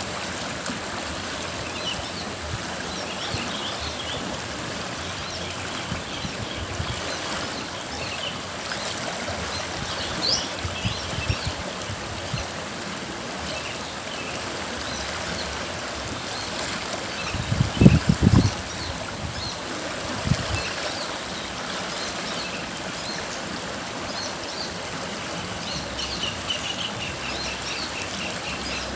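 River water flowing steadily, with birds chirping now and then, including a quick run of repeated chirps near the end. Some loud low thumps come about two-thirds of the way through.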